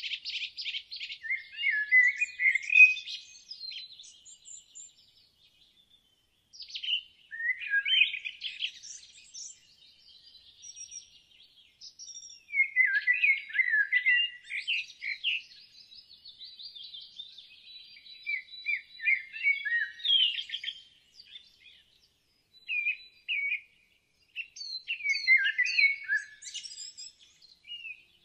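Songbirds singing: bunches of high chirps, quick trills and short whistled sweeps, with brief pauses between the bunches.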